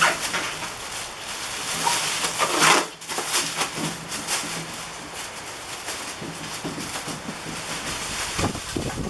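Cardboard and plastic packaging rustling and scraping as a heavy DeWalt DW735X planer is wrestled out of its box, with a louder scrape about a third of the way in.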